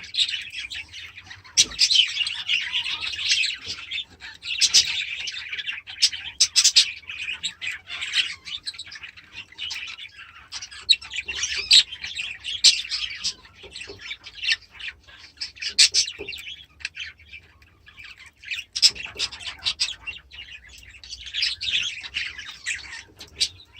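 Pet bird chirping and chattering almost without a break, with many short sharp calls, while being hand-fed millet.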